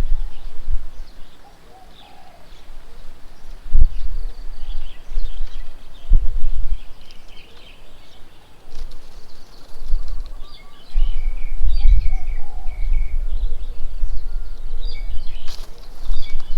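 Small birds chirping and twittering in short, scattered calls, thickest in the second half, over a loud, uneven low rumble. Two sharp knocks come about 4 and 6 seconds in.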